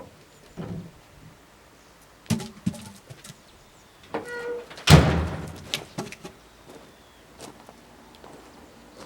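A few scattered wooden knocks and thunks of firewood being handled, the loudest a heavy thump about five seconds in that rings on briefly.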